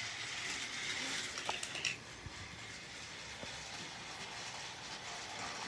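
Battery-powered TrackMaster toy engine running along plastic track: a faint steady whirring rattle, with a few light clicks in the first two seconds.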